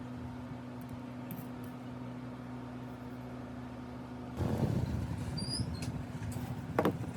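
A steady electrical hum, then rubbing and scraping starting about four seconds in, with two short high squeaks and a sharp click near the end: hand work on a tool being restored.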